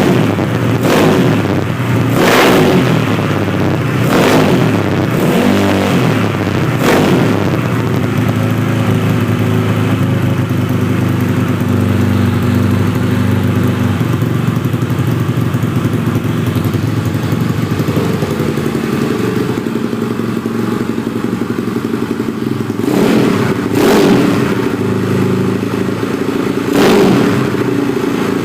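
Yamaha Mio scooter with a 200 cc engine running, revved in several short blips over the first seven seconds, then idling steadily, then blipped again a few times near the end.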